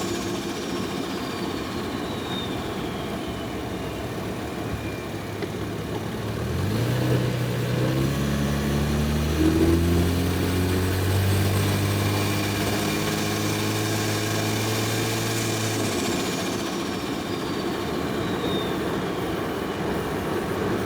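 Single-turbo 1JZ inline-six in a Toyota Soarer under way. The engine note climbs as the car accelerates, then holds steady. A high whistle falls away as the throttle is lifted, once near the start and again near the end.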